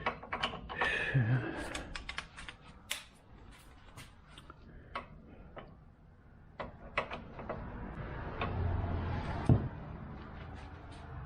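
Metal hand tools clinking and clicking as sockets and wrenches are handled: irregular sharp clicks, some close together, spread through the whole stretch.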